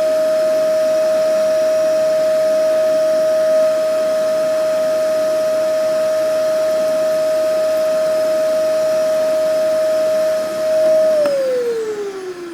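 Vacuum cleaner motor running steadily with a strong high whine over a rushing hiss. Near the end the motor is switched off and the whine falls in pitch as it winds down.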